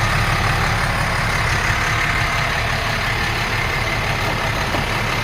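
International DT466 inline-six diesel engine idling steadily, with an even low throb.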